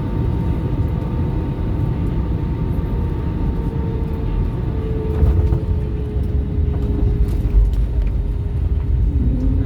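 Motor vehicle running, heard from inside: a steady low rumble with a humming tone that drifts slightly in pitch, and a second, lower hum joining near the end.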